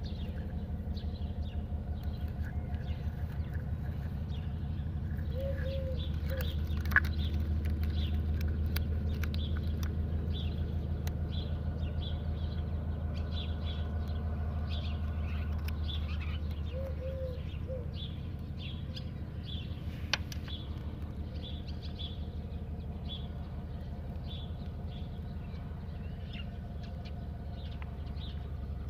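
Birds chirping over a steady low motor drone with a fast, even pulse, with two sharp clicks, one about a quarter of the way in and one past the middle.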